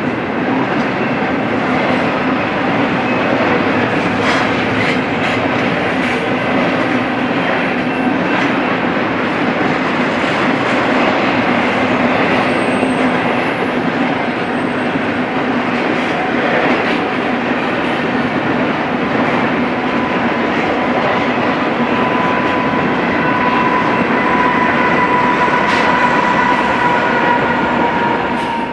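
Double-stack intermodal freight cars rolling past at speed: a dense, steady rumble of steel wheels on rail with a few clacks over the rail joints. A steady high wheel squeal builds over the last several seconds.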